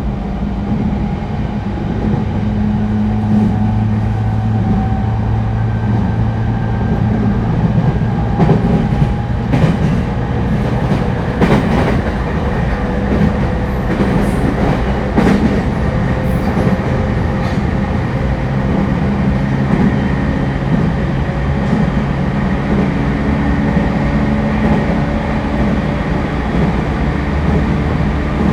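Running sound inside a refurbished E231-1000 series electric train car: a steady low rumble of wheels on rail under motor and inverter tones that rise slowly in pitch as the train gathers speed. Rail-joint clacks come through in the middle.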